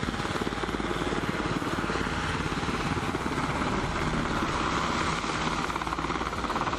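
Steady engine noise with a fast, even pulsing beat, holding at a constant level.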